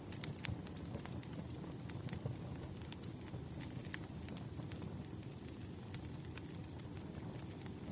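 Firewood burning: irregular sharp crackles and pops over a steady low rumble of flame, with a faint thin high whistle running from about two seconds in.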